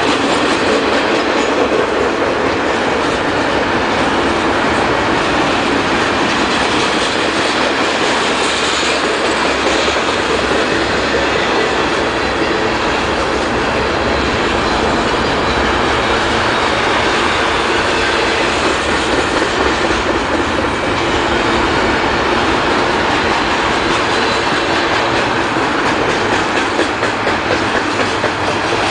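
Union Pacific double-stack container freight cars rolling past, their steel wheels running on the rails in a steady, loud, unbroken noise.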